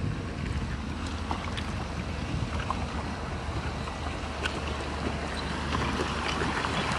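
Heavy earthmoving machinery running with a steady low diesel rumble, with scattered clanks and knocks of steel and rock throughout.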